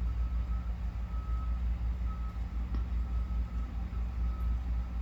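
Vehicle reversing alarm beeping, short even-pitched beeps about once a second, over a steady low engine rumble.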